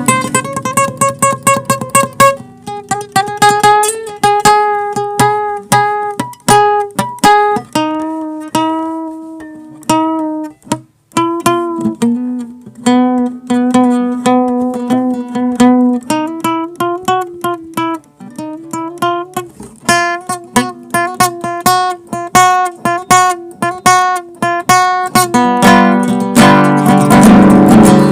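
Acoustic guitar playing an instrumental melody. It opens with rapid repeated picking on held notes, moves to a slower picked melody, and breaks into louder full strummed chords near the end.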